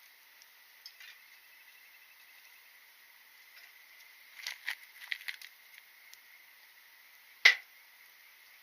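Wood fire crackling: a quick cluster of small pops about halfway through and one sharp, loud pop near the end, over a faint steady hiss.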